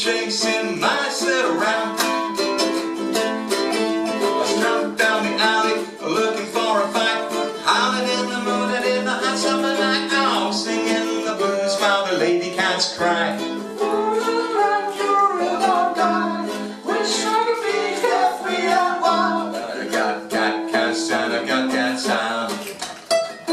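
A small acoustic band playing a stretch between sung verses: strummed plucked-string chords with a bending lead melody line over them.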